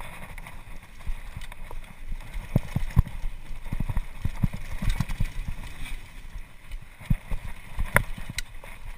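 Mountain bike clattering over a rough downhill trail: a steady run of uneven thumps and knocks from the frame and suspension, with a few sharper clacks, the loudest about eight seconds in.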